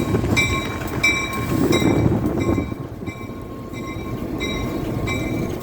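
Diesel commuter train's locomotive bell ringing steadily, about one stroke every 0.7 s, over the rumble of the train rolling past.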